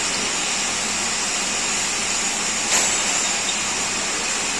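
A workshop machine running steadily, a hiss with a faint high whine, and one sharp click near the middle.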